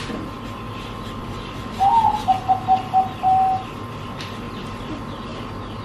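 A bird calling: one short rising note, then about five short notes at an even pitch, about two seconds in. A faint steady hum lies under it.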